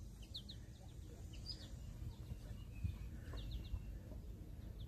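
Faint, scattered bird chirps: short, high notes, including a quick run of three about three and a half seconds in, over a steady low rumble.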